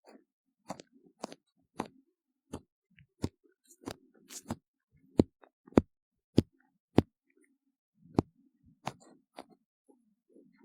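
Ear-cleaning tool working inside a silicone ear model close to the microphone: a string of sharp clicks and small scrapes, roughly two a second, at uneven intervals.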